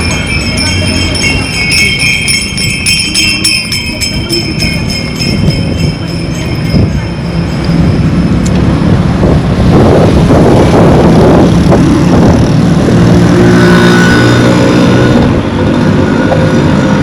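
Motor vehicle passing close by on the road, engine running, rising to a loud rush of engine and tyre noise over the second half. High jingling, ringing tones fade out within the first few seconds.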